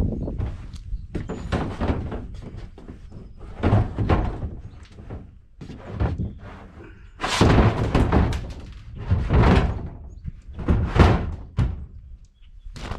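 Irregular hollow thuds and knocks of a portable toilet's plastic parts being handled and bumped against each other, heaviest about halfway through and near the end.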